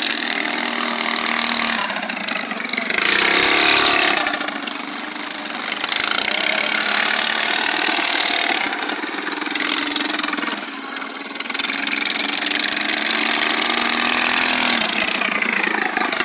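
Small mini bike engines running and revving as the bikes race, their pitch rising and falling; one bike passes close, loudest about three to four seconds in.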